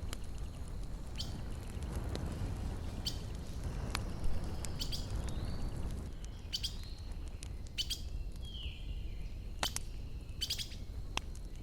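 Wood fire crackling, with sharp irregular pops over a steady low rumble, and a few short bird chirps.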